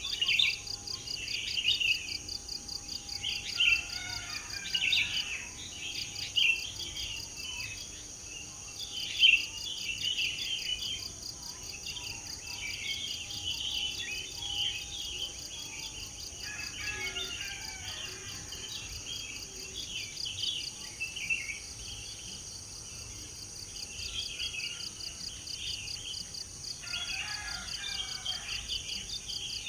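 Several songbirds chirping and singing in quick, overlapping phrases over a steady, high-pitched insect trill.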